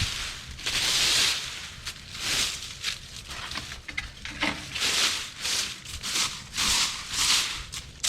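Dry fallen leaves rustling and crunching in a series of repeated swishes, about one a second.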